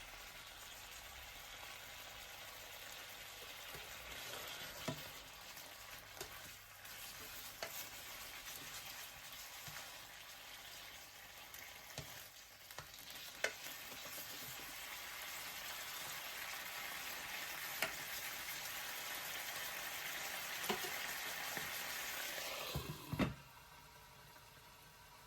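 Lemon-marinated chicken pieces frying and sizzling in a pan, a steady hiss that builds slowly, with a few sharp clicks. The sizzling stops abruptly near the end after a short louder burst.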